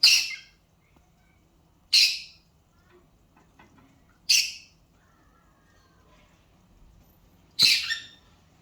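A bird sneezing four times, each a short sharp hissy burst, roughly two seconds apart; the last is slightly longer.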